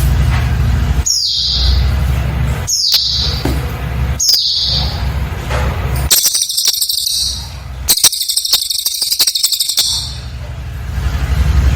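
Cililin bird calling: three short, high, downward-sweeping notes about a second and a half apart, then two long, fast, high trills. Between the calls there is a low steady hum.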